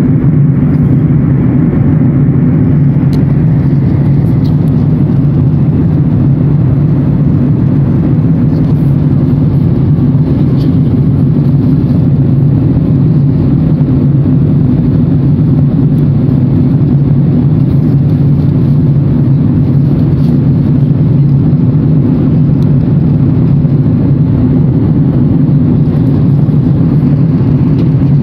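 Airliner cabin noise in flight: a steady, loud low drone of engines and airflow, unchanging throughout.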